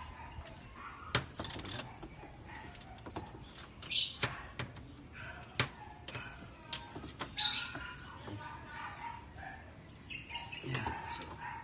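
A few short bird chirps, the loudest about a second and a half in, near four seconds and past seven seconds, over scattered light clicks and taps from hand work.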